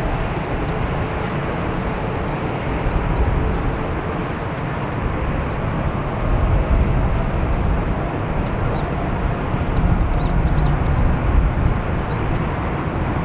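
Jet engines of a Boeing 787-8 running, a steady low rumble that neither builds nor fades.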